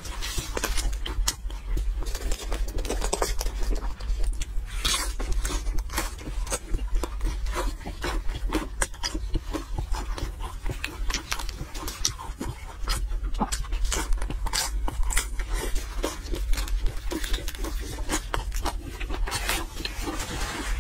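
Close-up eating sounds of a fried pastry roll being bitten and chewed: many short crunching and smacking sounds in quick, irregular succession, over a steady low hum.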